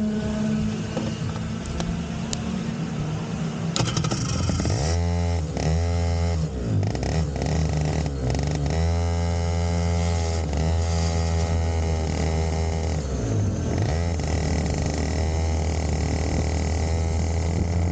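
Yamaha KT100SS 100 cc two-stroke racing kart engine heard on board, revving up and falling back over and over as the kart drives the circuit, louder and clearer from about five seconds in. It is being run in (break-in running) on a fresh engine.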